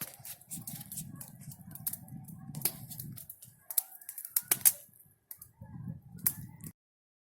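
Large wood bonfire crackling, with sharp irregular pops over a low rumble; the sound cuts off abruptly near the end.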